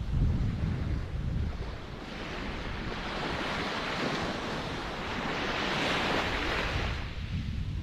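Ocean waves breaking and washing up the shore, with a low rumble early on and then a hissing wash that swells for a few seconds and ebbs away near the end, with wind on the microphone.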